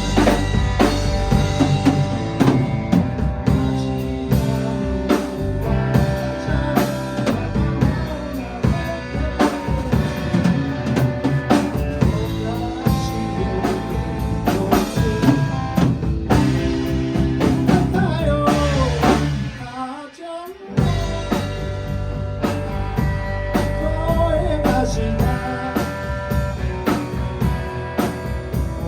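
A rock band playing in rehearsal: drum kit with rimshots and bass drum under electric guitar and bass. The band stops short for about a second, roughly two-thirds of the way through, then comes back in.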